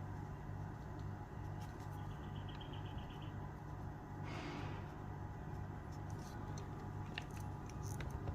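Low steady hum with a few faint small clicks, a brief run of quick light ticks about two seconds in, and a short soft rubbing hiss about four seconds in.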